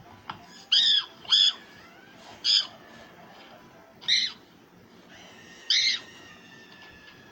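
Five short, high-pitched squeaky calls, each rising and then falling in pitch, spaced unevenly with pauses between them.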